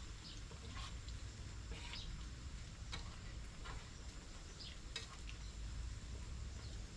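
Food being stirred in a pan: short, irregular scrapes of a utensil over a faint, steady sizzle.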